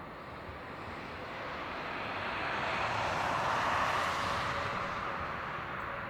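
Jet engines of an Airbus A321neo passing on its landing, a whooshing rush that swells to a peak a few seconds in and then fades.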